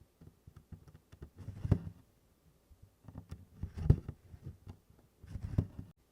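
Needle and DMC cotton floss being stitched through 24-count canvas in tent stitch: three pulls of thread, about two seconds apart, with small ticks of the needle between.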